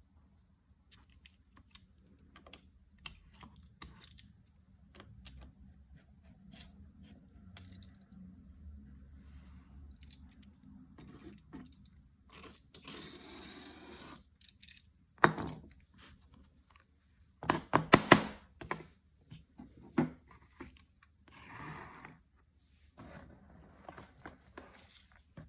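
Workbench handling noises: scattered light clicks and taps, a rasping scrape about two seconds long midway through, then a run of sharp knocks.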